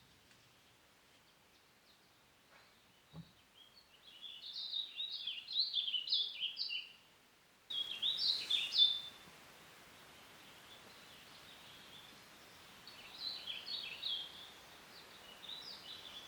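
A songbird singing: phrases of quick, short, high chirping notes, several of them a few seconds apart, over a faint steady background hiss.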